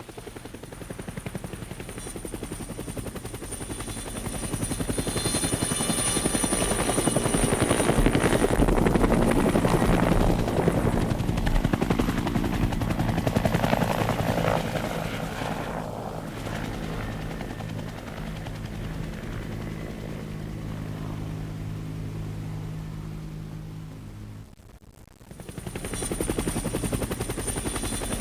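Firefighting helicopter flying over with its rotor and engine running steadily, growing louder to a peak about a third of the way in and then easing off. It breaks off abruptly for about a second near the end, then returns loud.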